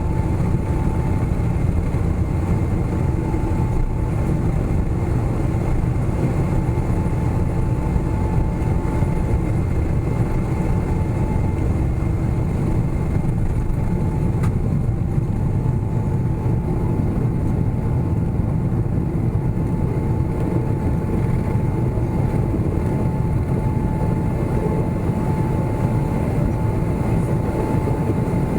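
Steady jet engine and airflow noise heard inside the cabin of a Boeing 777-300ER: a heavy low rumble with a faint, even whine over it. The GE90 engines are running.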